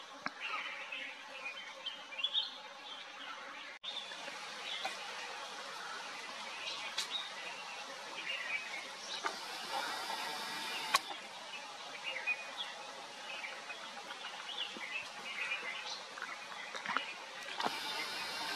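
Several small birds chirping and calling in short, scattered notes over a steady outdoor background hiss, with a brief cut in the sound about four seconds in.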